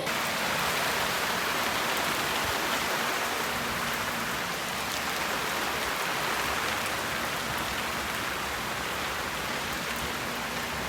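Steady rain hiss with faint scattered drop ticks, starting abruptly.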